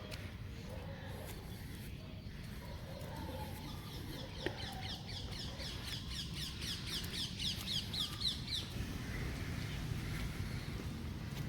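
A songbird singing one long trill of rapid, repeated down-slurred notes, about five a second, growing louder and then stopping abruptly. Under it runs a steady low outdoor background noise.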